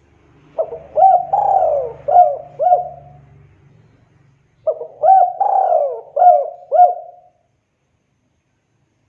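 Spotted dove cooing: two phrases of about five coos each, a couple of seconds apart.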